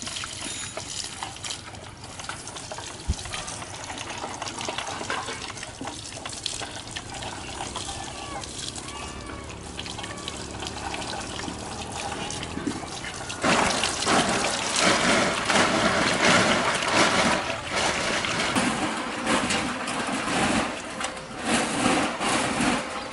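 Running water, a steady flow that becomes louder and more splashy about halfway through.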